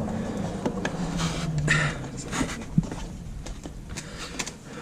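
Plastic trim clips and bezel parts being worked by hand: scattered small clicks and scrapes, with a short low murmur-like hum about a second in.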